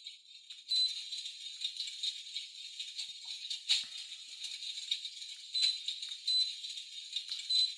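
Electric fireplace control beeping with a short high beep at each button press as its display modes are clicked through, over a steady high hiss with small crackles.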